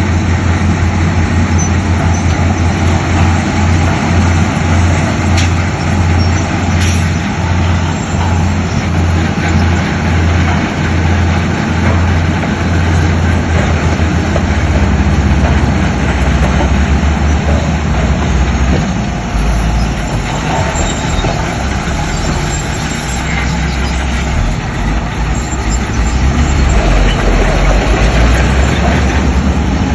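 Heavy diesel earthmoving machinery running at a loud, steady level: a deep engine drone that pulses in the first half and runs smoother from about the middle on.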